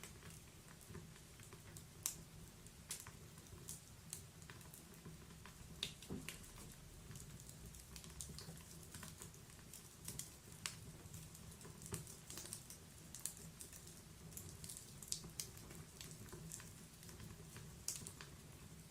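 Wood fire burning in a fireplace: irregular sharp crackles and pops from the burning logs over a low, steady hiss and rumble of the flames.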